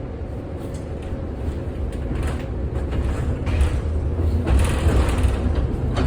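1948 Philadelphia PCC streetcar running along the track: a low rumble with rattles and clicks, growing louder as it goes.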